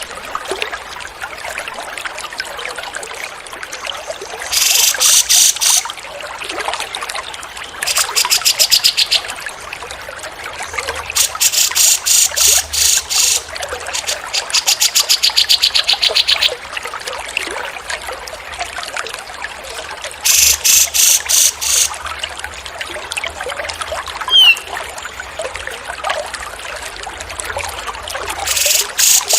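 Running water trickling, broken about six times by a songbird's rapid, dry trill, each a second or two long and louder than the water. Near the end comes one short rising whistle.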